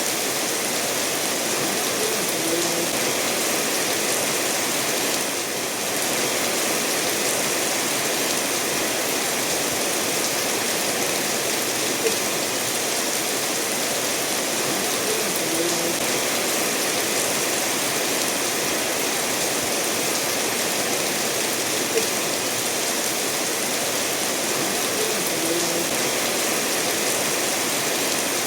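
Steady rainfall blended with a stream running over stones, with an occasional single drop ticking through.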